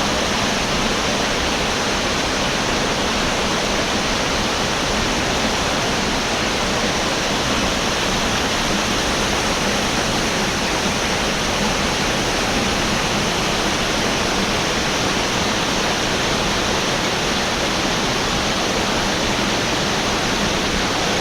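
Waterfall pouring: a steady, loud, unbroken rush of falling water close to the microphone.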